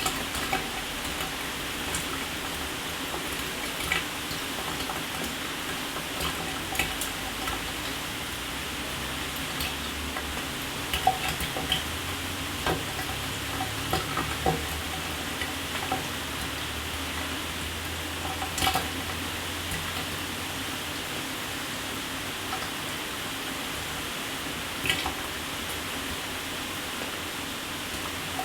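Shower running: a steady hiss of spraying water, broken by frequent sharp splashes and drips. The loudest splashes come a little before halfway through and about two-thirds of the way through.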